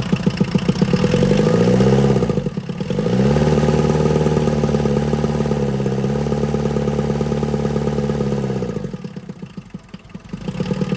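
VW Rabbit pickup's 1.6 diesel engine running, freshly swapped in after the old motor lost compression. It is revved up about a second and a half in, dips briefly, then held at higher revs for about five seconds before falling back toward idle.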